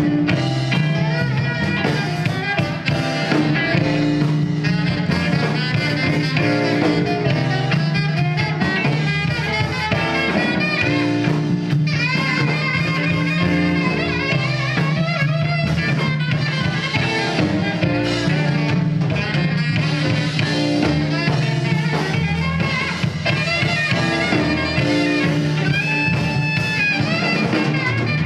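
Live band music: an instrumental passage with drums, a steady bass line and a lead melody line, with no singing.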